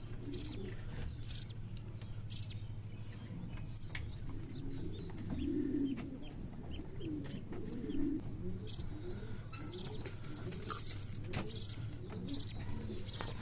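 Birds calling: short high scratchy chirps typical of budgies, mixed with repeated low cooing notes. A steady low hum runs underneath.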